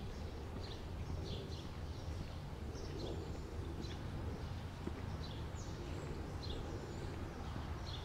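Small songbirds calling with many short, high chirps, several a second and overlapping, over a steady low rumble.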